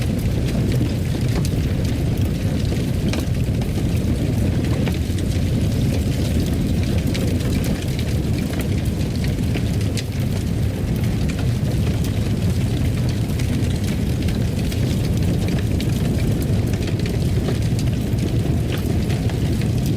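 Fireplace fire burning: a steady low rumble of flames with scattered small crackles and pops throughout.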